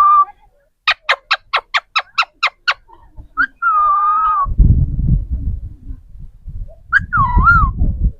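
A pet parrot calling: a short whistle, then a quick run of about nine sharp chirps, then two whistled calls that waver in pitch. From about halfway, a loud low rumbling noise runs under the calls.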